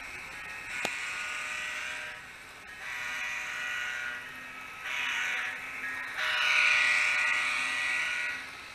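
Miniature sound-decoder horn (Digitrax decoder with the stock F40PH sound scheme in an N-scale Kato P42) sounding through the model's tiny speaker in a long, long, short, long pattern, the grade-crossing signal. A faint steady low diesel hum runs under it, and there is a sharp click about a second in.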